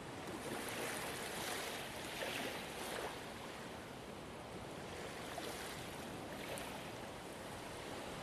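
Ocean waves washing in, a louder surge of surf in the first three seconds easing into a steadier wash.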